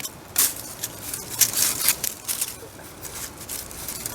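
Irregular crunching and scuffing footsteps on the hillside ground, a few sharper crackles among them, as someone picks their way down a slope.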